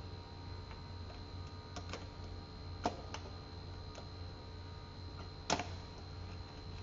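Scattered light clicks and taps of hand tools and engine parts being handled, about six in all, the sharpest about three seconds in and again near the end, over a steady low hum.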